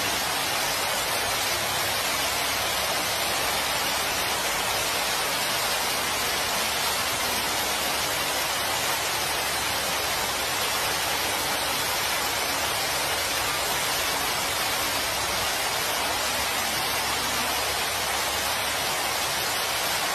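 A steady, even hiss with no change in level, strongest in the upper range and with little low rumble.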